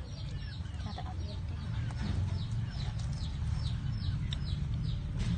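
Birds chirping: many short, falling high peeps in quick succession, over a steady low rumble.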